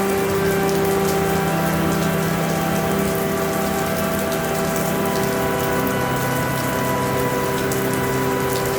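Steady rainfall, an even hiss dotted with small drop ticks. Underneath run several held low tones that change a few times.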